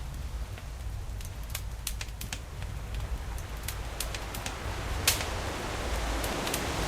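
Campfire crackling: scattered sharp pops and snaps, one louder pop about five seconds in, over the low steady rumble of surf. A wave's wash swells up near the end.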